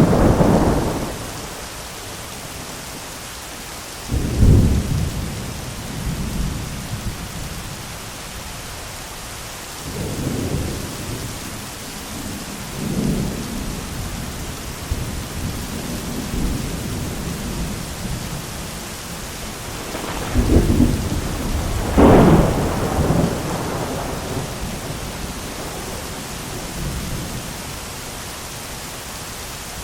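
Thunderstorm: steady rain with repeated thunder. A crack of thunder opens it, a deep rumble follows about four seconds in, and weaker rolls come around ten and thirteen seconds. The loudest moment is a close double strike and rumble about twenty to twenty-three seconds in.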